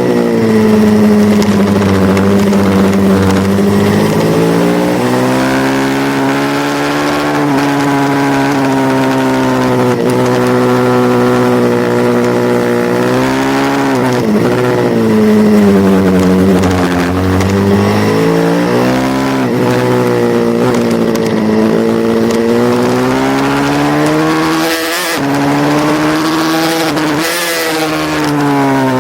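Pit bike's small single-cylinder engine racing, its revs climbing through the gears and falling away again and again as the rider brakes and accelerates around the circuit, with brief sharp drops in revs near the end.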